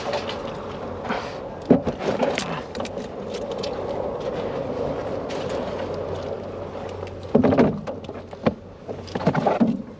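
Knocks and thumps of refilled plastic water jugs being handled and set down in a vehicle's rear cargo area, a few early on and a cluster of louder ones near the end, over a steady hum.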